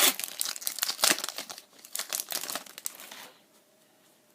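Foil Pokémon booster pack wrapper crinkling and tearing as it is handled and opened, a dense irregular crackle that stops about three seconds in.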